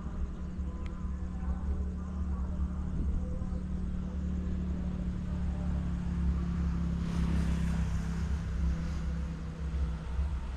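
Diesel train running: a steady low rumble and engine hum, with a swell of broader noise about seven seconds in and the hum fading near the end.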